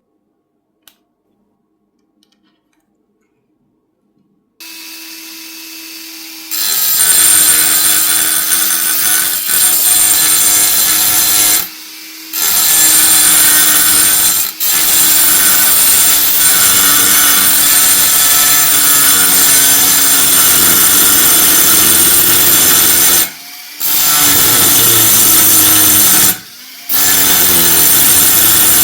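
A small handheld power tool spins up with a steady whine, then grinds or sands against metal in long, loud passes. Its pitch sags slightly under load, and it lifts off briefly about four times.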